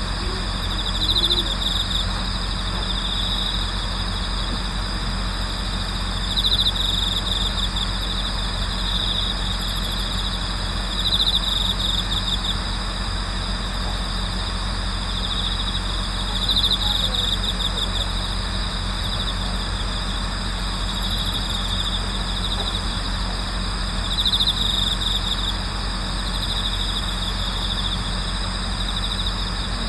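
A chorus of autumn crickets trilling steadily at night, with a louder trill standing out about every five seconds, over a steady low hum.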